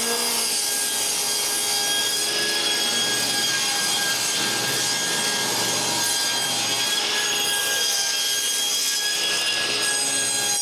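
Table saw running steadily, ripping the rough edge off pieces of planed 2x4 lumber.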